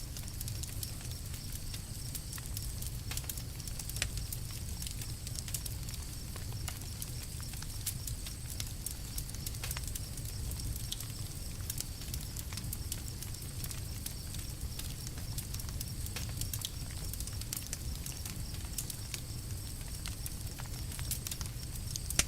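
Campfire crackling: irregular small pops and snaps over a low, steady rumble, with a sharper pop about four seconds in and another near the end.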